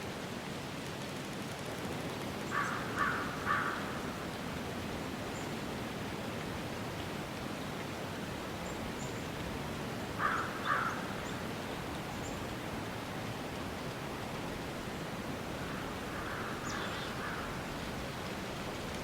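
A crow cawing over a steady, even hiss of outdoor ambience: three quick caws about three seconds in, two more about ten seconds in, and a fainter run of calls near the end.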